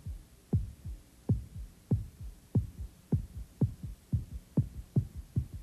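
Heartbeat sound effect: deep double thumps, each dropping in pitch, that speed up to about two beats a second.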